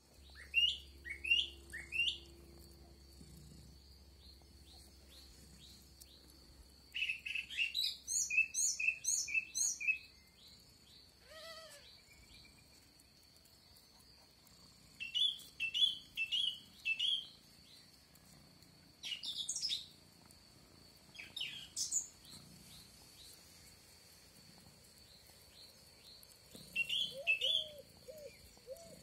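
Wild birds chirping and calling in several short bursts of quick high notes, with quiet gaps between. A run of low repeated notes starts near the end.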